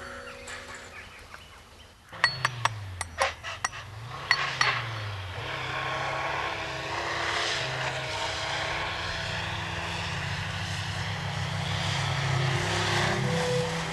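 A few sharp clanks and knocks, then a van's engine turns over with a falling pitch and settles into running steadily.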